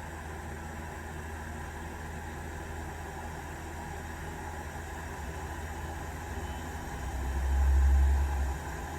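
Steady low hum with faint hiss, swelling into a louder low rumble for about a second and a half near the end.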